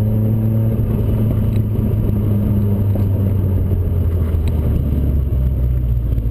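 Engine of a Toyota-engined Triumph Spitfire running steadily at moderate revs with a deep drone, heard from the open cockpit with wind noise over it.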